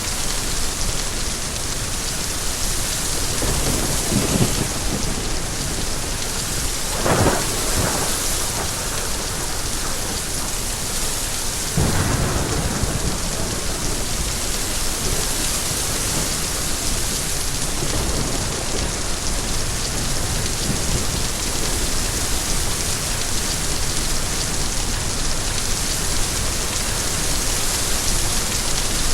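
Steady, heavy rain hissing, with thunder: a rumble about four seconds in, a sharper crack of thunder around seven seconds, and another rumble about twelve seconds in.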